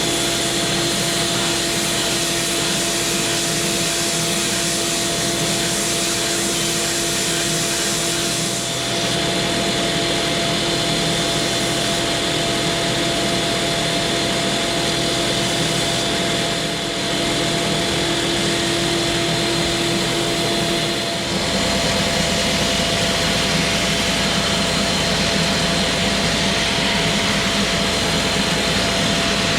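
Electric sander and dust-extracting vacuum running steadily on white oak parts, a continuous motor whine and hiss. The tone shifts briefly about nine seconds in, again around seventeen seconds, and the low hum grows heavier about twenty-one seconds in.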